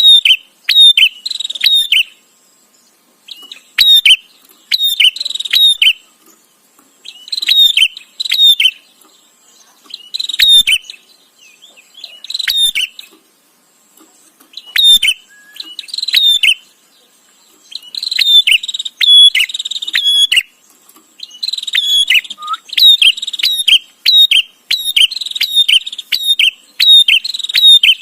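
Prinia (prenjak) chattering call: loud, rapid runs of sharp repeated notes, in bursts of a second or two broken by short pauses.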